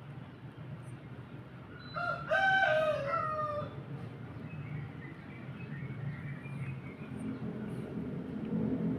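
A rooster crowing once, about two seconds in, lasting about a second and a half and falling away at the end, over a low steady hum.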